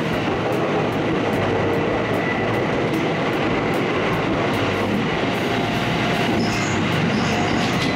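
Electric passenger train running through a tunnel, heard from inside the front car: a steady, loud rumble of wheels on rail, with a faint high squeal briefly near the end.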